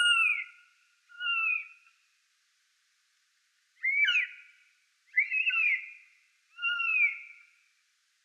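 A bird giving five short whistled calls a second or two apart, each a slurred note that mostly falls in pitch.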